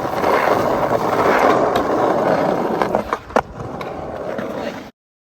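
Skateboard wheels rolling on pavement with a steady grinding rumble. A few sharp clacks of the board come about three seconds in, the rolling goes on more quietly, and then the sound cuts off abruptly near the end.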